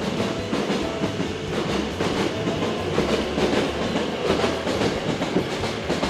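Hankyu 9000 series electric train pulling out and running away down the line, its wheels clacking in a run of clicks over the rail joints.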